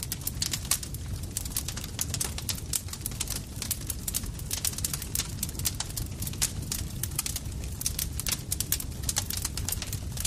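Campfire crackling: a steady low rumble of burning wood with dense, irregular sharp pops and snaps, several a second.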